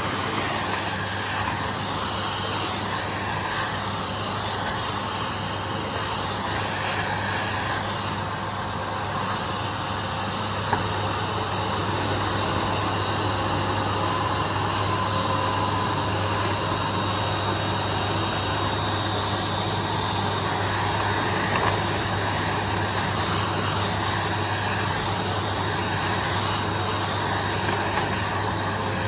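Vacuum cleaner running steadily on a carpet, a continuous whooshing drone with a low motor hum underneath.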